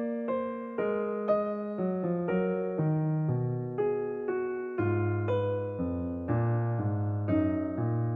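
Background piano music: a slow, gentle melody of single notes over low bass notes, each note struck and left to fade.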